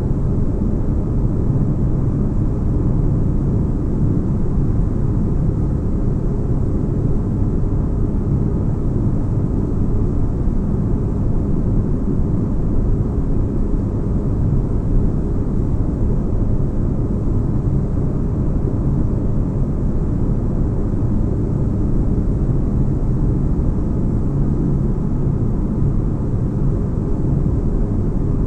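Steady deep rumbling hum of a sci-fi spaceship interior ambience, an even low-pitched noise with no distinct events, like engines heard through a ship's hull.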